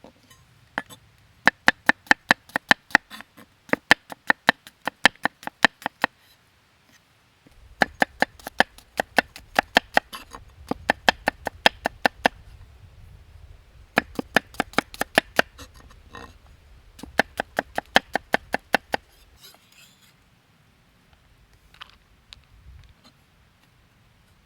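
A knife chopping quickly on a cutting board, in several runs of about six strokes a second with short pauses between; it goes quieter in the last few seconds.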